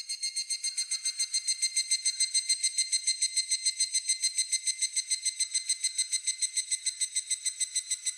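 Higurashi (evening cicada) calling: a rapid, even series of ringing pulses, about eight a second, that swells in just before and holds steady.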